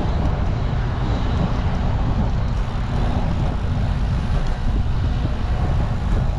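Steady rush of wind on a GoPro's microphone while cycling, mixed with road traffic going by.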